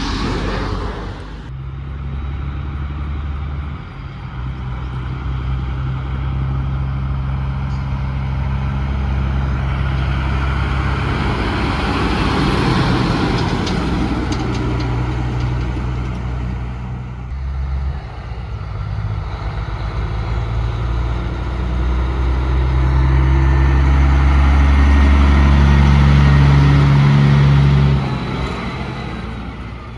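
Heavy truck engines running as trucks pass by: a steady low engine drone that shifts pitch several times and grows loudest near the end, then drops off quickly.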